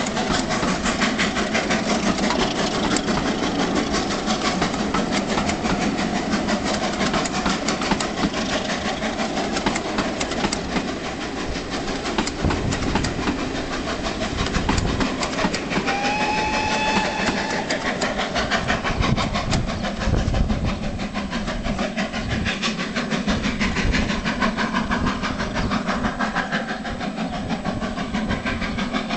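A passenger train's coaches rolling past on the rails: a steady rumble with rapid, even wheel clicking. About halfway through, the locomotive gives one short whistle, rising slightly in pitch.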